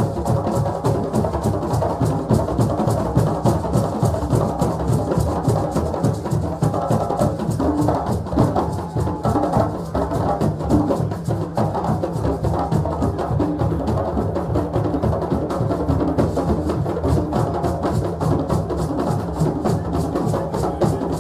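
Ivorian drum ensemble playing a fast, dense, steady rhythm of many overlapping strikes.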